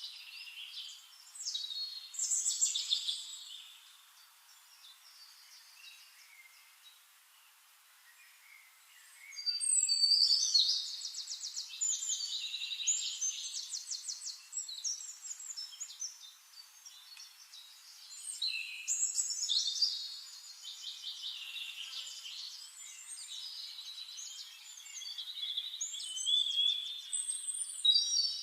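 Songbirds singing in a chorus of overlapping phrases: rapid high trills and whistled notes that come in bursts, with quieter stretches of faint chirping between them.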